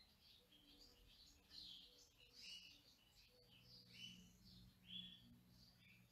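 Faint bird chirps and twitters, many short calls one after another, over a faint low steady hum.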